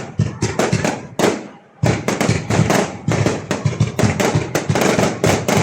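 Fireworks going off in a rapid, dense barrage of sharp bangs and crackles, with a short lull about a second and a half in.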